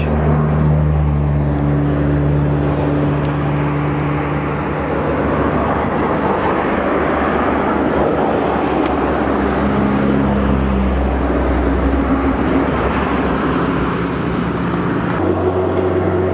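Motor vehicle engine running steadily under road noise. The engine's pitch shifts a couple of times, about ten seconds in and again near the end.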